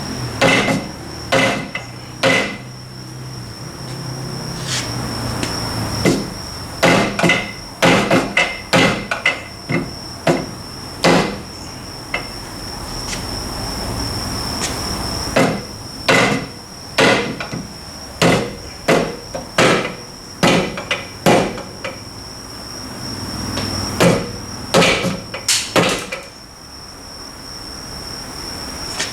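Hammer blows on the metal parts of a Suzuki Carry rear differential being knocked apart for overhaul, in irregular clusters of sharp taps, some with a short ring.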